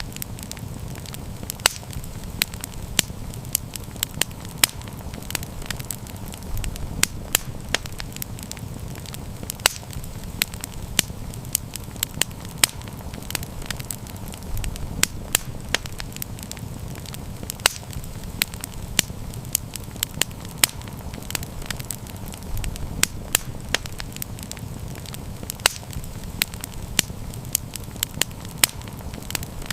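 Wood fire crackling, with frequent sharp irregular pops over a steady low rumble of the flames.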